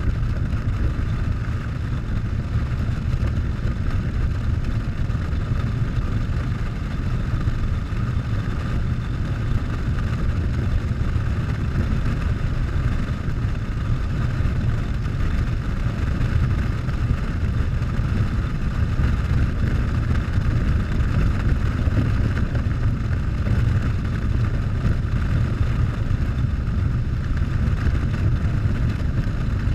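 Harley-Davidson Softail's V-twin engine running at a steady cruise, with a deep, even rumble and constant wind noise over the camera.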